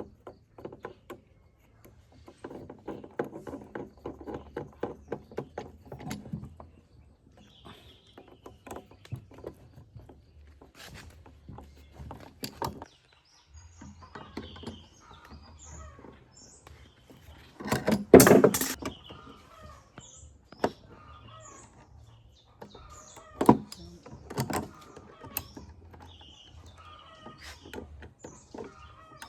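A run of clicks and knocks from hand work on machine parts, with a rattling patch early on and one louder clatter about 18 seconds in. Birds chirp in the background.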